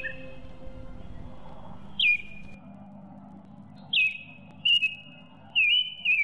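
Bird calls: short whistled notes that slide sharply downward. One comes about two seconds in, then several follow in quick succession near the end, over a faint low hum.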